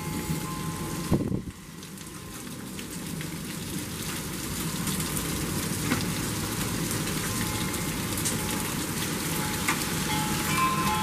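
Torrential thunderstorm rain pouring down, growing steadily louder, with a few scattered sharp ticks. A single loud thump comes about a second in.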